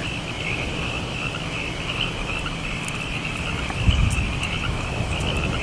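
Insects chirring steadily in a high, even drone, over the low rumble and hiss of an old film soundtrack.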